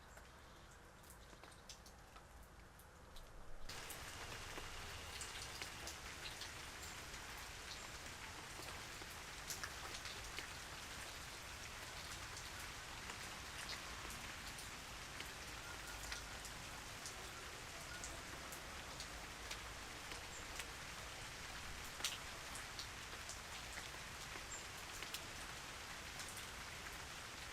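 Steady rain with many single drops ticking on a surface. It comes in suddenly, louder, about four seconds in, after a fainter first few seconds.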